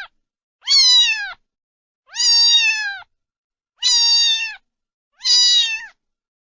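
Domestic cat meowing four times, about once every one and a half seconds, each meow under a second long and dropping in pitch at its end.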